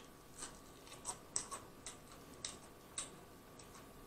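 A person chewing a mouthful of fried onion ring close to the microphone: soft irregular crunches and wet mouth clicks, a couple each second.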